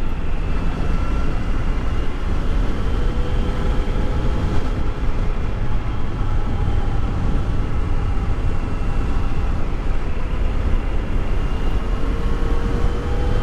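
Motorcycle engine running at a steady pace under a constant low rush of wind and road noise; its faint engine tone drifts slightly and rises a little near the end.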